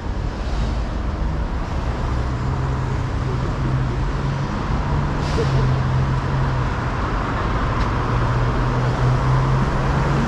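City street traffic: road noise with a vehicle engine running close by, a steady low hum that strengthens about a second in.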